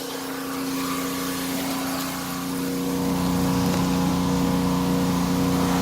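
A machine running steadily with a low, even hum that gets a little louder about halfway through.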